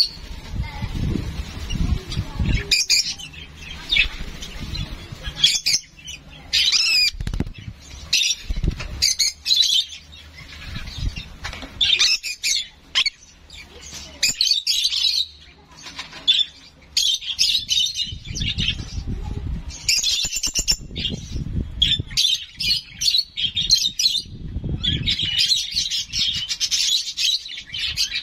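A young pet bird chirps over and over in short high calls while fluttering its wings, with bouts of low thumps; this is typical of a hand-fed young bird begging for food. The chirping gets thicker near the end.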